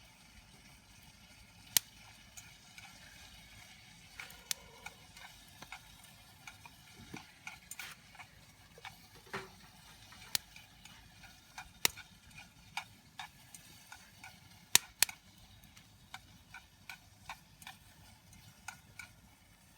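Wood fire crackling in a home-made secondary-combustion fire pit: irregular sharp pops and snaps, a few of them loud, over a faint steady background.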